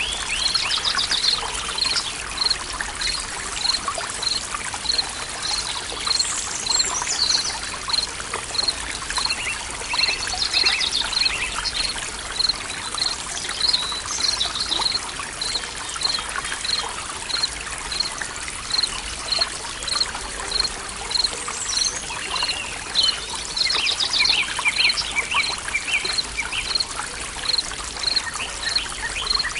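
Forest stream trickling steadily, with birds calling over it; one short high chirp repeats evenly, somewhat under twice a second, all the way through.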